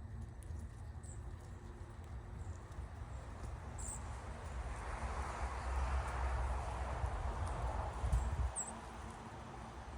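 Outdoor ambience with a steady low rumble and a broad hiss that swells through the middle and fades. A few very short, high chirps from small wild birds come through, most clearly about four seconds in and near the end.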